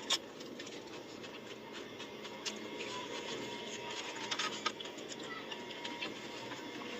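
Pani puri being eaten: scattered small crisp crackles and clicks over a steady background noise, with a sharp click at the start and a brief cluster of them about four and a half seconds in.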